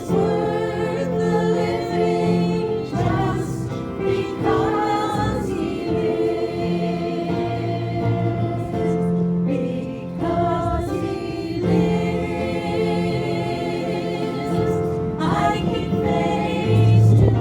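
Group singing of a gospel hymn, several voices holding long notes together.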